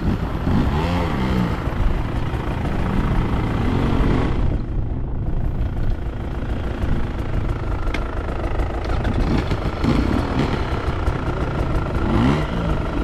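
Dirt bike engine running at low speed on a rocky trail, its revs rising and falling several times.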